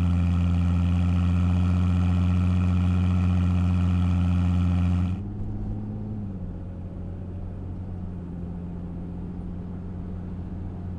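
2005–2010 Ford Mustang 4.0 L V6 running through a MAC Boom Tube axle-back exhaust with straight-through mufflers: a loud, steady exhaust note. About five seconds in it cuts abruptly to a quieter, more muffled engine sound.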